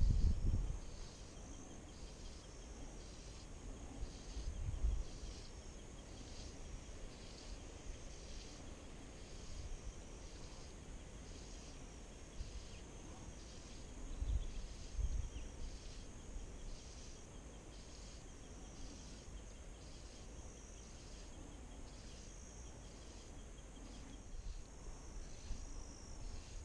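An insect, likely a cricket, chirping steadily with a high pulse about once a second. Low wind rumbles on the microphone come a few seconds in and again about halfway.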